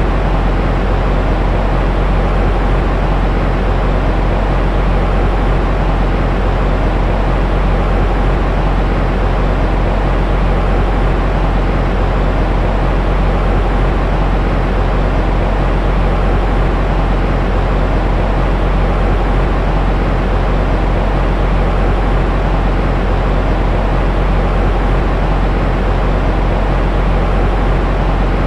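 Steady white noise for soothing a baby, a continuous deep hiss with most of its weight in the low end, unchanging throughout.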